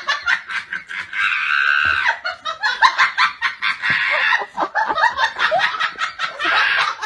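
High-pitched laughter, a fast, unbroken run of short laughs.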